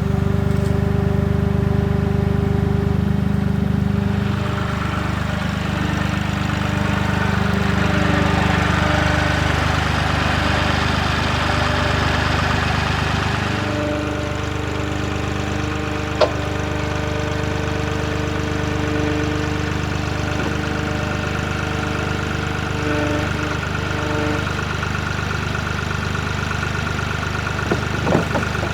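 Avant 755i compact loader's engine running steadily, its tone shifting a few times, with one sharp knock about sixteen seconds in.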